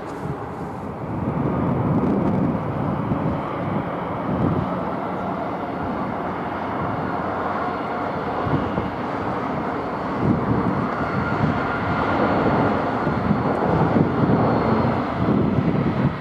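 Airliner engines running, a steady dense noise with a faint high whine, swelling a couple of seconds in and again in the second half.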